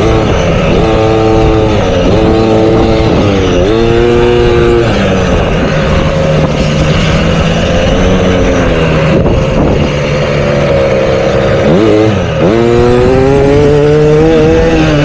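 Motocross dirt bike engines revving on the track, the pitch climbing and dropping again about five times as riders work the throttle and shift, over a steady lower engine drone.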